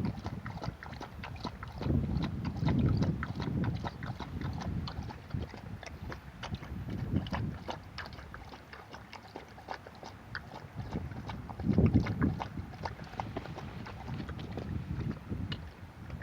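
Sea waves washing on the shore, swelling louder about two seconds in and again near the twelve-second mark, with a constant scatter of small clicks and crackles over the wash.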